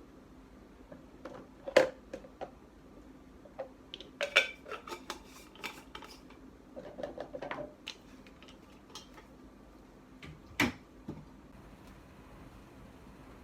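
Dishes and kitchen utensils being handled and set down: scattered clinks and knocks, the loudest about two seconds in, a quick run of them around four to five seconds, and another sharp one near the end. A faint steady hum runs underneath.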